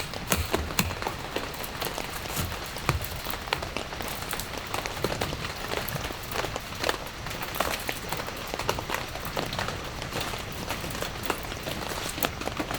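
Steady rain falling, with many separate drops tapping sharply on a surface.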